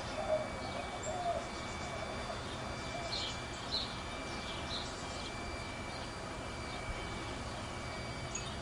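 Birds calling: low warbling calls in the first second or so, then about four short high chirps between three and five seconds in.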